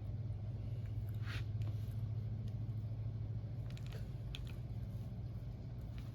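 Faint eating sounds from pancakes being chewed: a few soft clicks and brief wet mouth smacks, over a steady low hum.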